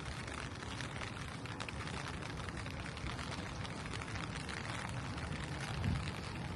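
Steady rain pattering on a street, many small drops over a low rumble, with one brief low thump near the end.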